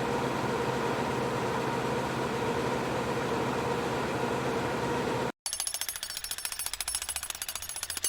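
3D printer running: a steady whir of fans and motors with a hum through it, which cuts off suddenly about five seconds in. After a brief gap comes a fast, even ticking of about ten ticks a second.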